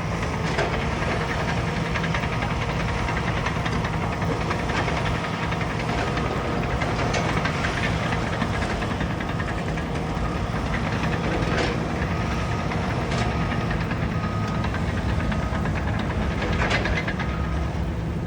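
Bulldozer's diesel engine running steadily under load, with occasional sharp knocks and clanks from the machine as it works. Short beeps about once a second sound in the second half.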